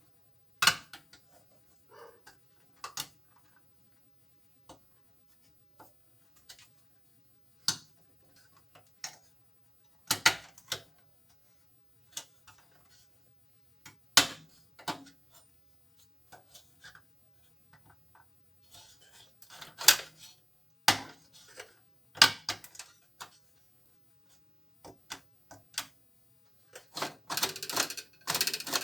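Hand tools and metal parts clicking and knocking at irregular intervals while a washing machine's mechanism is being reassembled. A rapid run of clicks comes near the end.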